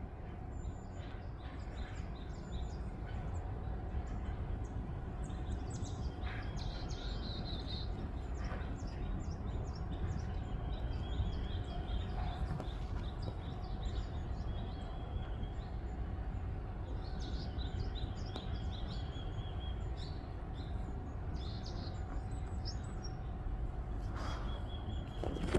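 Small birds chirping in quick runs of short, high calls, clustered in two spells, one about a quarter of the way in and one a little past the middle. Underneath, a steady low rumble of wind on the microphone and a faint steady hum.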